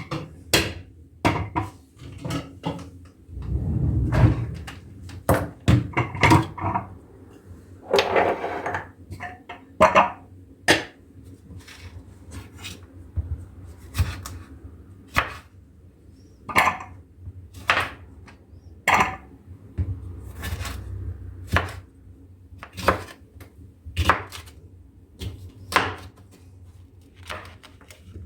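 Kitchen work at the counter: a long series of sharp knocks and clacks of utensils, dishes and a wooden cutting board. A few short rustles come in the first half, and the knocks settle to about one a second later on.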